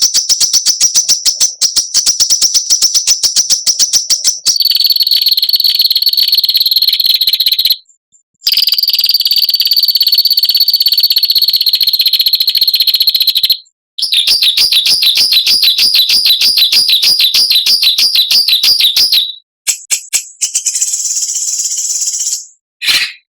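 Songbird's harsh, rapid buzzing trills ('besetan'), the kind of rough song played to train caged birds. The trills come in long runs of several seconds with short breaks between them. One run wavers up and down in pitch, and shorter bursts follow near the end.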